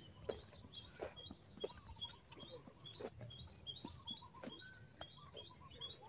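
Small birds chirping: a long run of short, quickly repeated high chirps, faint. Soft footsteps on a dirt path come about every two-thirds of a second beneath them.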